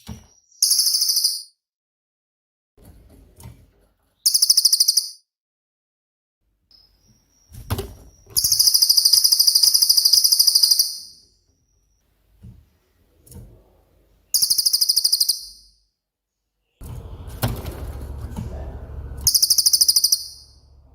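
A cililin songbird giving its rapid, high-pitched rattling trill, the burst-like 'shooting' song used as masteran for training other songbirds. It gives five separate bursts, four short and one long one of about two and a half seconds in the middle. A low rumbling noise comes in over the last few seconds.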